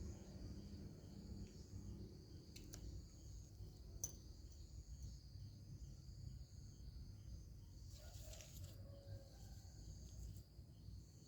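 Faint, steady, high-pitched insect chorus with a faint even pulse underneath, over a low rumble, and a single sharp click about four seconds in.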